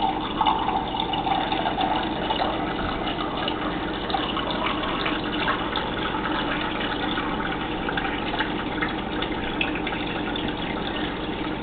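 Water running steadily from a tap into a cup, filling it.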